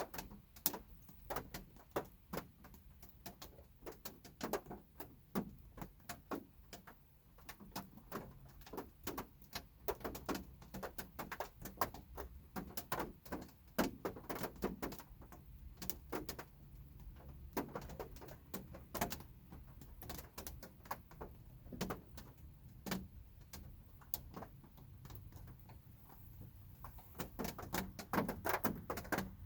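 Light rain heard from inside a parked car: scattered raindrops tapping irregularly on the car's body, several a second, over a low steady rumble.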